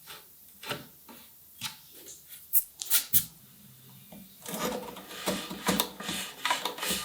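Knocks and clicks of wooden parts being handled, turning about halfway through into a busier stretch of rubbing and tapping of wood.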